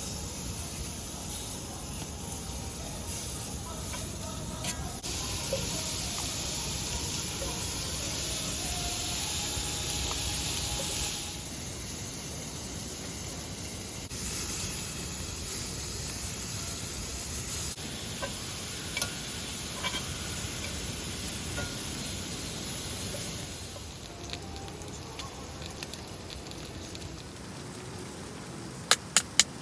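Food sizzling in a pan: a steady frying hiss with small crackles, easing off partway through, then a few sharp clicks near the end.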